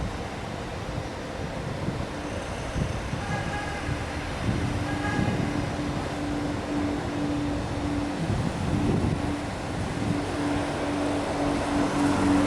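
Wind buffeting the microphone, with a steady aircraft engine hum coming in after a couple of seconds and holding on.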